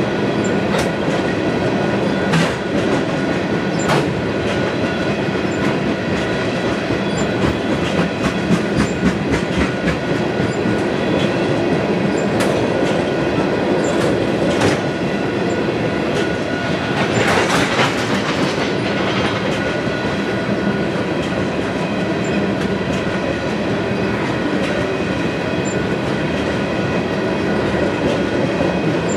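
Freight train of tank cars rolling past close by: a steady rumble of steel wheels on the rails, with scattered clacks and knocks and a steady high ringing. A brief louder rush of noise comes just past the middle.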